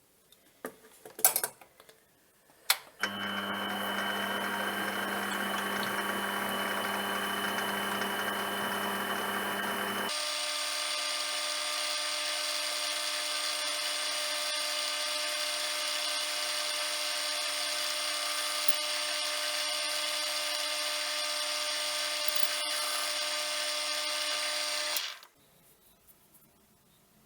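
A few clicks, then a lathe's electric motor running steadily with a hum. About ten seconds in it jumps abruptly to a higher pitch, and it stops suddenly near the end.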